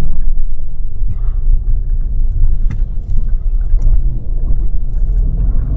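Lada Vesta driving, heard from inside the cabin: a steady low rumble of road and engine noise with a few light ticks. The front suspension runs without squeaking on its newly replaced stabilizer bar bushings.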